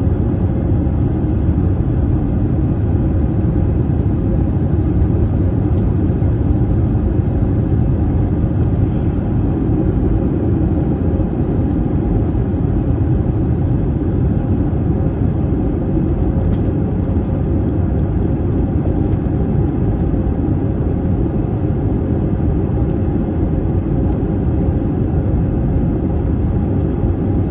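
Steady low rumble of engine and airflow noise in an airliner's cabin, holding an even level throughout.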